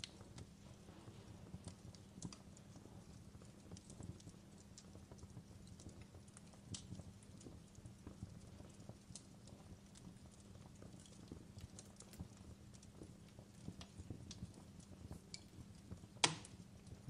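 Fireplace crackling: a wood fire giving scattered, irregular soft snaps and pops, with one sharp louder pop near the end.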